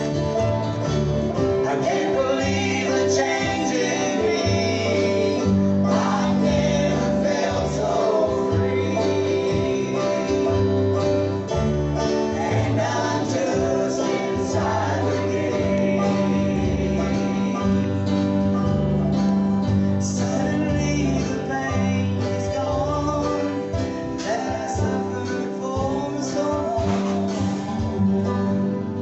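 A live gospel group singing with guitar and bass accompaniment, in a bluegrass and country style.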